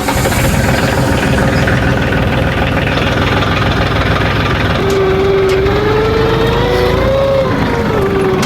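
Loader tractor's engine running steadily just after being started. About five seconds in a whine joins it, wavering up and down in pitch for about three seconds.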